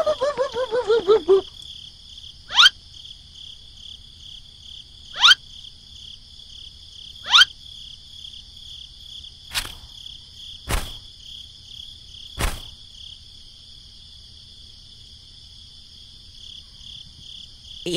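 Steady chirring of crickets, with a voice trailing off in the first second and a half. Then come three quick rising whistle-like swoops a couple of seconds apart, followed by three sharp clicks.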